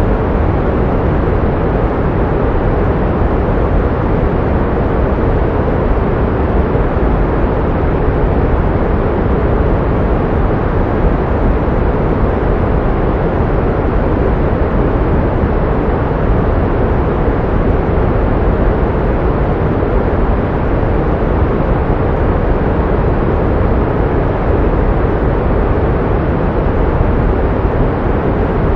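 Steady pink noise: an even, unbroken hiss with no tone or rhythm, fuller in the low end and soft in the highs.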